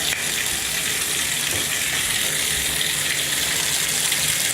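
Water running steadily from a bathtub tap, a constant hiss.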